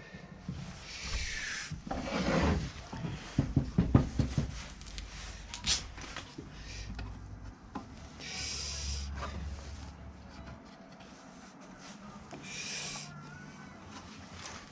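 Hand work on a part: rubbing and scraping strokes with scattered knocks. There is a burst of knocking a couple of seconds in, and three short scraping passes spread through the rest.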